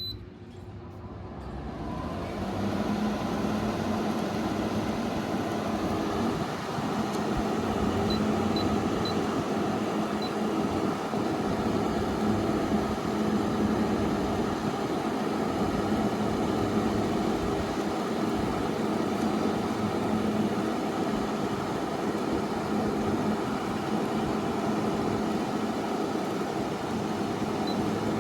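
Frigidaire 8000 BTU window air conditioner switched on with a short beep. Its fan motor spins up over a couple of seconds, then runs steadily with a low hum and a steady rush of air. A few faint short beeps come about eight to ten seconds in.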